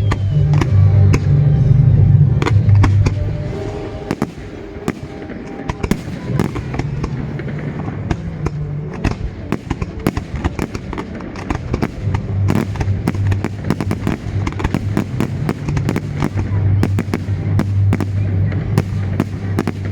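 Fireworks display: a dense stream of sharp cracks and crackling reports, thickest from about six seconds in, over music with a deep bass line.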